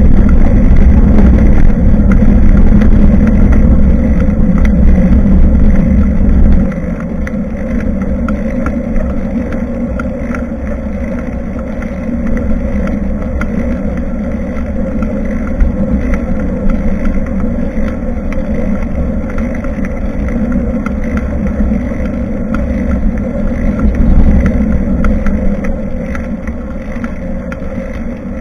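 Wind rushing over the microphone of an action camera on a moving bicycle, mixed with road noise. It is loudest for the first six seconds or so, then drops suddenly and carries on lower.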